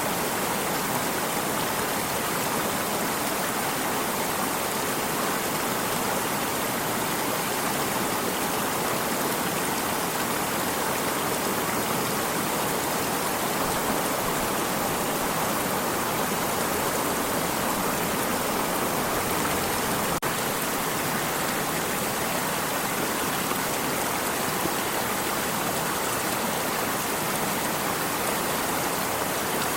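Flowing stream of water, a steady rushing sound that never changes in level.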